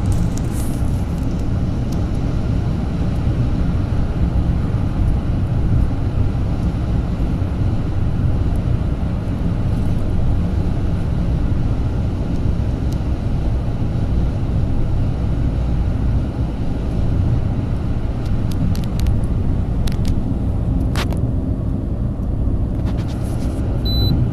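Car on the move: steady road and engine noise, low and rumbling.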